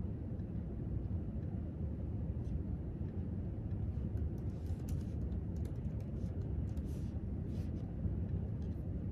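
Steady low rumble of a library's room tone. From a couple of seconds in, it is overlaid by faint, irregular clicks of typing on a keyboard.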